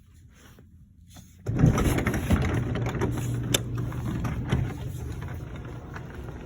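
Craftsman 1.5 horsepower belt-drive garage door opener starting about a second and a half in and running the door, a steady motor hum with rattles and clicks from the moving door.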